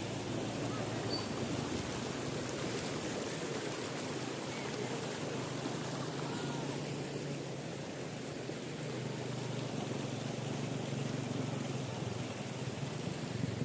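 Floodwater flowing, a steady rushing wash with a low steady hum beneath it.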